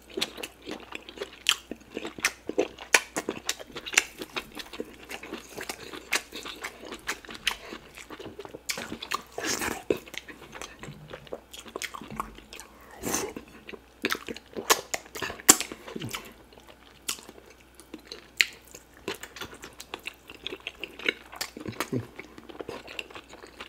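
Close-miked wet chewing and lip-smacking of a man eating fufu and soup-soaked meat by hand, with irregular clicks and smacks.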